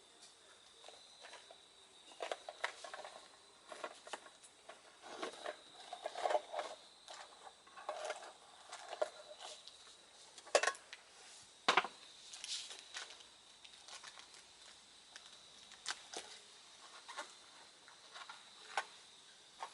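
Wood campfire crackling, with irregular sharp pops and soft rushes of flame, two louder snaps about halfway through.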